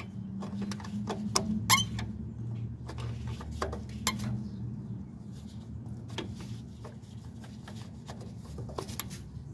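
Irregular metal clicks and taps of a wrench working a stubborn fastener loose on a small-engine carburetor, over a steady low hum.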